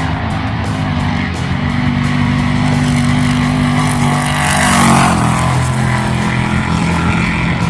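Motor vehicle engine running steadily at speed on a dirt race course, with a brief loud surge about five seconds in as the engine pitch drops.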